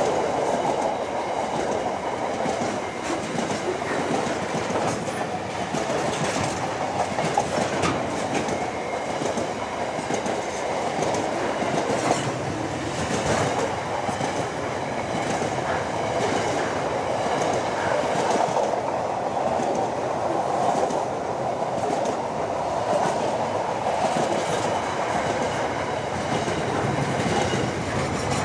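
Container wagons of a long freight train rolling past at close range: a steady rumble of steel wheels on rail with a continual run of clicks.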